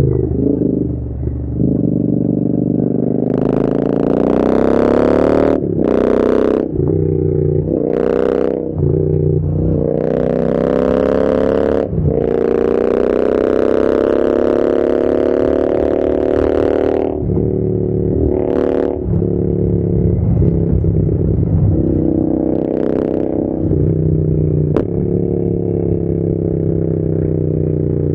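Royal Enfield Interceptor 650's parallel-twin engine through an aftermarket AEW TE101 exhaust, pulling and easing off on the throttle. Its pitch climbs and falls repeatedly, with several sharp dips like gear changes, and bursts of rushing noise come in on the harder pulls.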